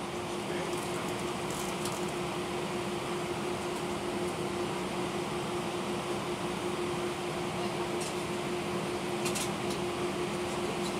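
Steady cabin noise inside an Airbus A319 airliner: an even rush of air and engine noise with a constant low hum.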